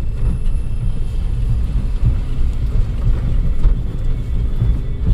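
Suzuki Jimny driving over a rough, unsurfaced road: a steady low rumble from the vehicle and its tyres, broken by irregular knocks and jolts.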